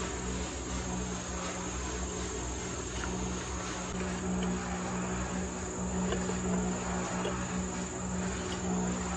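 Steady high-pitched insect chirring, cricket-like, held without a break, over a steady low hum.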